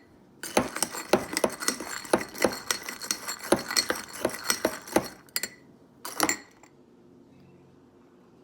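Ice cubes clinking and rattling against a glass as an iced coffee is mixed, in rapid irregular clinks for about four and a half seconds, then one more short burst of clinks about six seconds in.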